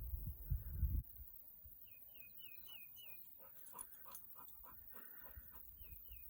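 Wind rumbling on the microphone for about a second, then cutting off. After it, a small bird repeats a short chirp several times, twice over. In the middle a dog pants in quick, rhythmic breaths.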